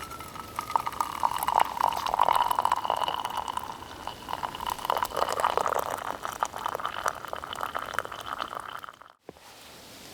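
Water being poured into a container, a steady gurgling stream whose pitch climbs slightly as it fills, with small splashy clicks; it stops abruptly about nine seconds in.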